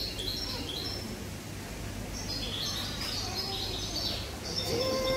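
Small birds chirping in repeated runs of short, high notes, over a steady low hum.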